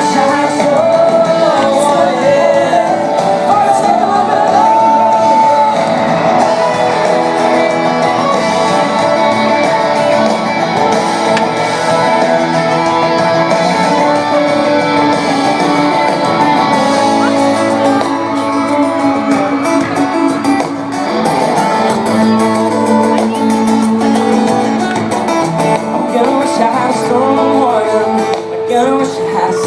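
Live country-pop band performing a song, with a lead singer over guitars and band.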